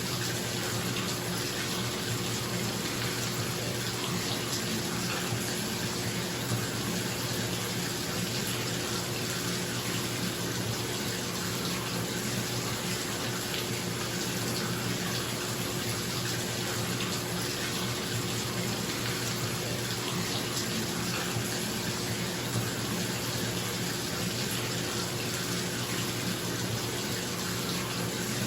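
Bathtub tap running steadily, water splashing into the filling tub, over the low steady hum of a bathroom exhaust fan.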